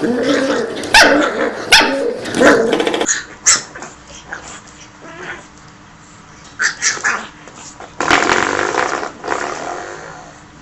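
Puppies barking and growling: a run of sharp, loud barks for about three seconds, quieter yips and scuffling in the middle, then louder again near the end.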